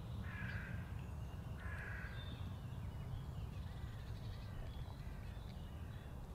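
A bird calling outdoors: two short, harsh calls in the first two seconds, then faint thin chirps, over a steady low rumble.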